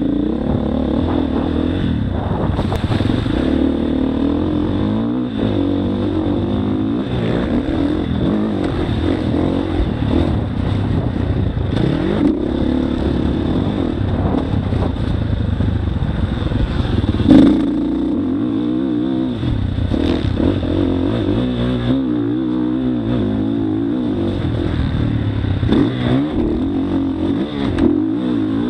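Motocross bike engine running hard, its pitch rising and falling again and again as it revs and shifts around the track. There is a loud sudden hit about two-thirds of the way through.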